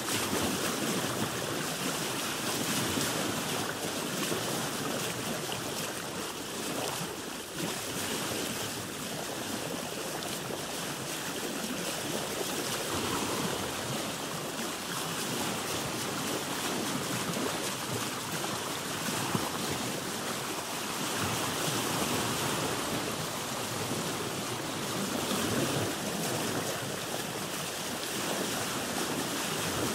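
Sea water washing and lapping against a boat's hull, a steady rushing wash that swells and eases slowly.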